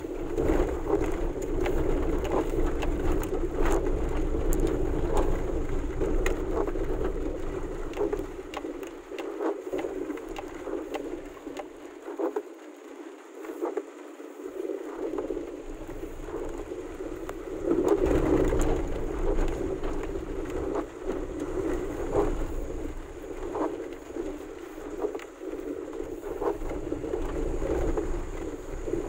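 Heavy rain pattering on a vehicle's roof and windscreen, heard from inside the cabin as a steady hiss dotted with sharp drop taps. Underneath runs the low rumble of the vehicle on the wet road, which drops away for a few seconds midway.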